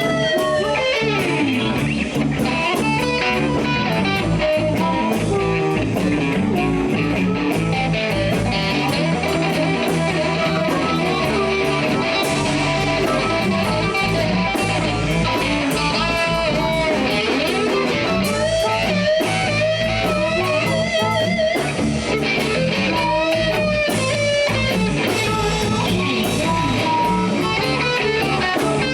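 Live blues band playing an instrumental break: an electric guitar lead with bent, wavering notes over bass and drums keeping a steady beat.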